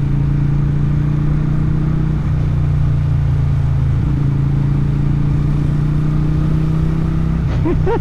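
Motorcycle engine and exhaust running at steady revs while riding along, with small changes in the note about two and four seconds in.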